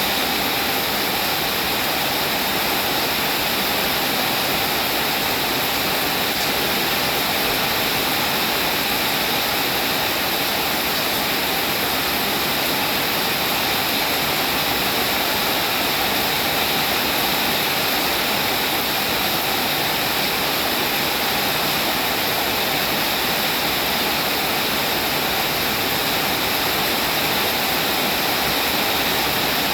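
Steady rain falling: a dense, even hiss of rainfall.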